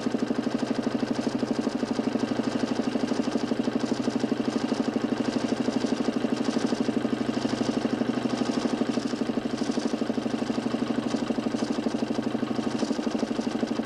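DC motor spinning a large 40cm plywood Nipkow disc of a homemade mechanical television, running steadily with a rapid, even pulsing drone.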